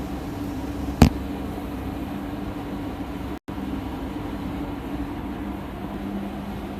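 A DPF cleaning machine running steadily, its high-pressure water pump humming as water flushes through the particulate filter. There is a sharp click about a second in, and the sound drops out for an instant just past halfway.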